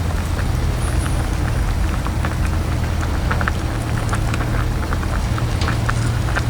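Small clicks and crackles of seafood shells being cracked and chewed, scattered irregularly over a steady low hum.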